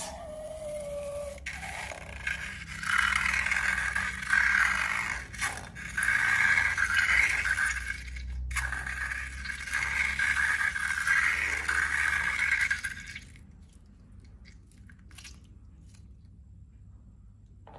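Repeated scraping in long swelling strokes of a couple of seconds each, stopping about thirteen seconds in and followed by a few light clicks. It opens with a short squeak falling in pitch.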